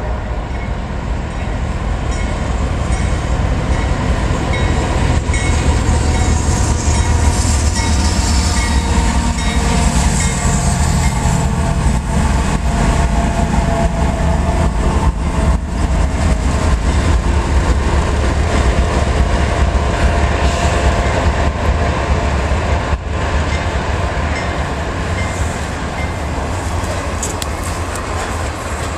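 CSX freight train passing close by: its diesel locomotives go by with a heavy, steady engine rumble, followed by double-stack container cars rumbling and clattering over the rails.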